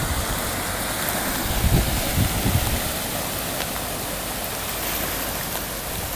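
Steady rush of water: rain and running floodwater, with a few low bumps about two seconds in.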